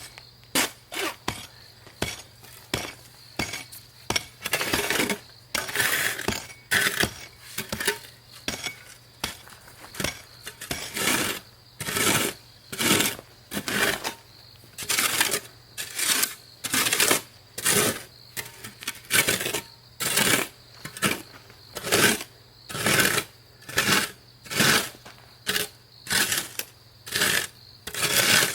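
Shovel digging into stony ground: a crunching scrape and clink of stones with each stroke, about once a second, some strokes drawn out into longer scrapes.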